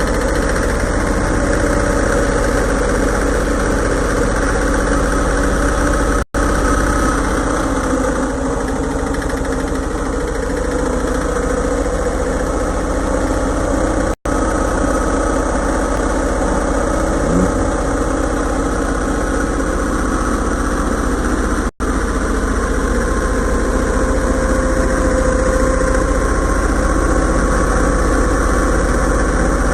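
Yamaha Libero motorcycle engine idling steadily. The sound drops out for a split second three times, as if the recording were spliced.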